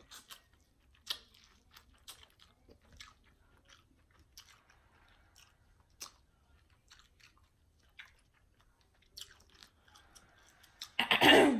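Close-miked chewing and lip-smacking of a person eating seafood boil, heard as scattered soft clicks and smacks at irregular intervals. A louder breathy sound comes near the end.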